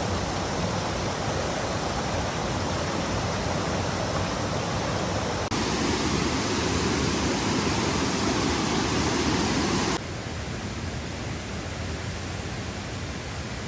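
Steady rush of falling water. It jumps louder and deeper about five and a half seconds in, then drops back to a quieter, thinner rush at about ten seconds in.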